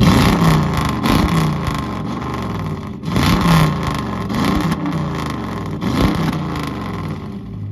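Car engine revved hard several times in bursts, its pitch sweeping up and down, with a few sharp cracks. It fades near the end.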